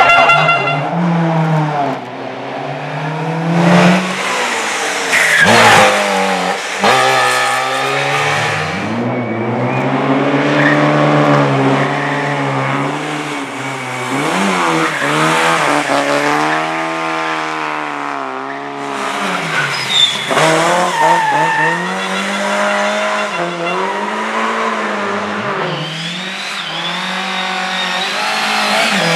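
Race car engine revving hard and dropping back over and over as it accelerates, shifts and brakes through corners, with tires squealing at times.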